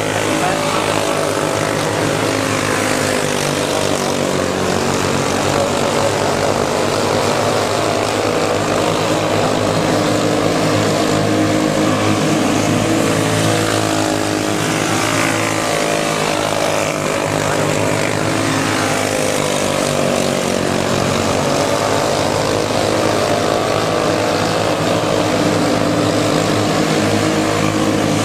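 A pack of racing go-kart engines running on a dirt oval, several at once, their pitches rising and falling as they rev and ease off through the laps.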